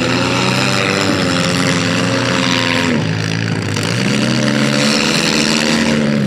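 Demolition derby cars' engines revving hard, the pitch climbing and holding, falling off about three seconds in, then climbing again, over a steady engine drone underneath.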